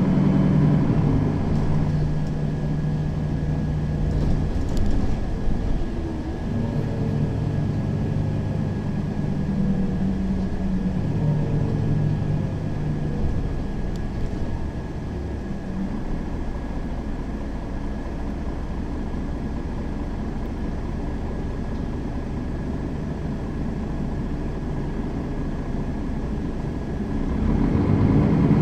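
Mercedes-Benz Citaro facelift city bus engine running as the bus drives. The engine note shifts a few times in the first half, is quieter through the middle, and swells louder near the end.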